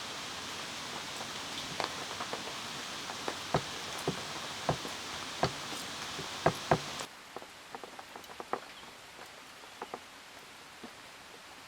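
Steady rain hiss with scattered heavy drops tapping sharply on a surface. About seven seconds in the hiss cuts off abruptly, leaving a quieter patter of occasional drips.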